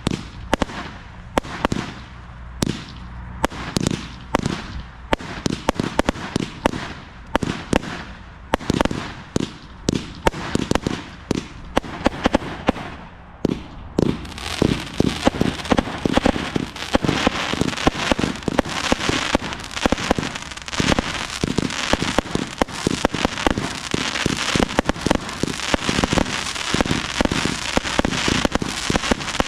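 A 200-shot compound firework cake firing its barrage, with sharp shots several a second in quick succession. About halfway through, a dense crackling joins in and carries on under the bangs.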